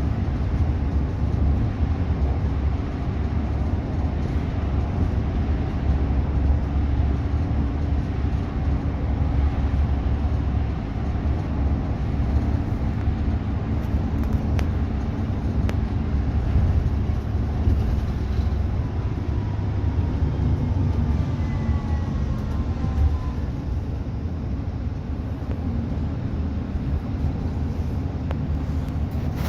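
Cabin noise of a G9311 express bus driving along: a steady low engine and road rumble, with a faint brief high squeal about two-thirds of the way through.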